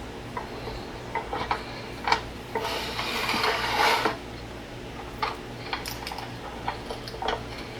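Plastic and metal parts of a Uconnect 8.4 head unit being handled during disassembly: scattered clicks and taps, with a scraping, rustling stretch about three seconds in that lasts a second and a half.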